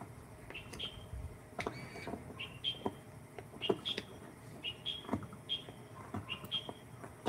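A small bird chirping over and over, short rising chirps about once or twice a second, with scattered sharp clicks and knocks.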